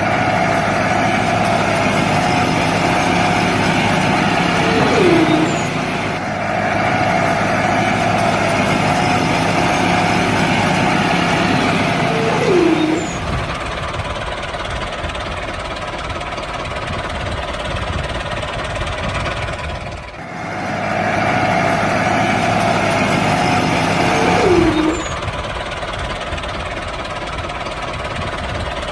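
Small motor of a model tractor running steadily. A mid-pitched whine comes and goes in stretches of a few seconds, and a brief falling squeal is heard several times.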